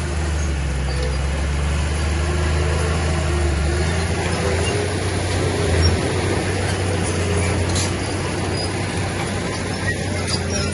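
Heavy diesel earthmoving machine running steadily under load, with a deep, even engine drone.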